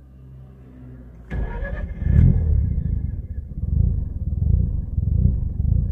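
Mazda RX-8 R3's twin-rotor rotary engine being restarted hot with no throttle. After a low hum, the starter engages about a second in and the engine catches, then runs roughly with an uneven, pulsing note. It is a hard hot start, part of the car's persistent starting problem.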